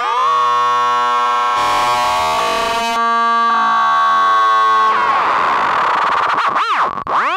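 Eurorack modular synthesizer voice, Intellijel Rubicon 2 oscillator through the Morgasmatron filter, holding a sustained buzzy tone whose overtones shift and glide. About five seconds in it turns noisy, and near the end it breaks into a deep, swooping, wobbling pitch sweep.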